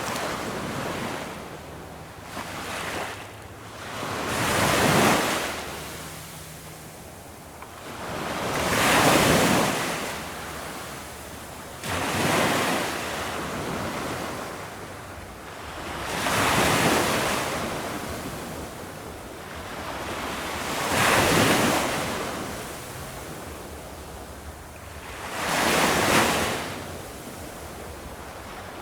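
Ocean waves breaking on a shore: about six surges, one every four to five seconds, each swelling up and washing away into a steady hiss of surf.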